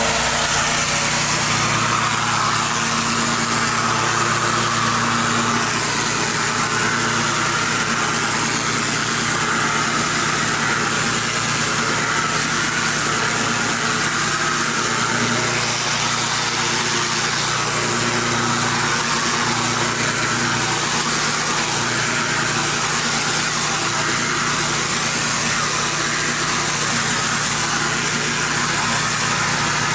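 Pressure washer's gas engine running steadily under load, with the even hiss of high-pressure water spray.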